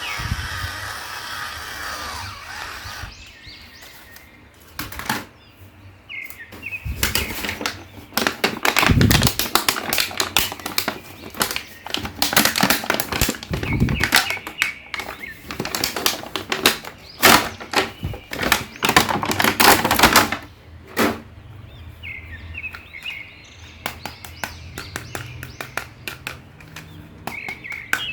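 Plastic toy packaging being handled and unwrapped: irregular rapid crinkling, rustling and clicking, densest through the middle and quieter toward the end.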